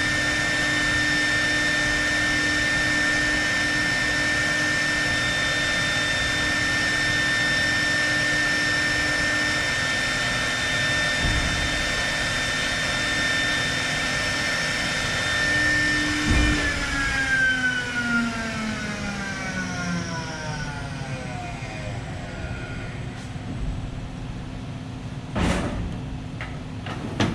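Patriot CNC router's spindle running with a steady high whine, then switched off about sixteen seconds in with a knock, its pitch falling as it spins down at the end of the job. A few sharp knocks follow near the end.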